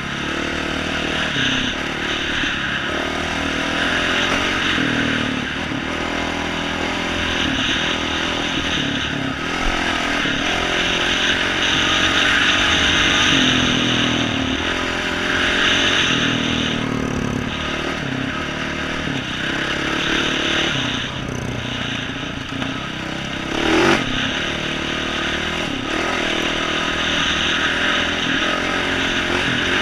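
A 2012 Yamaha YZ450F's single-cylinder four-stroke engine, fitted with an aftermarket exhaust, being ridden and revving up and down again and again as the throttle is worked. There is a single sharp knock about three-quarters of the way through.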